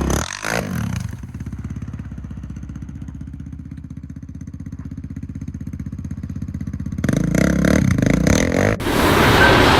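Yamaha Raptor 700 ATV's single-cylinder engine running at an even idle with a steady pulse, getting louder about seven seconds in. Shortly before the end the sound cuts abruptly to a loud, even rushing noise.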